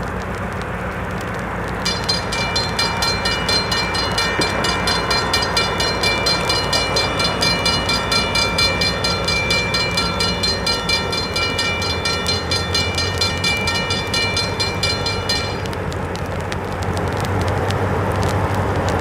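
Railroad grade-crossing bell ringing about twice a second, starting about two seconds in and stopping a few seconds before the end. A diesel locomotive rumbles underneath and grows louder near the end as the train comes on.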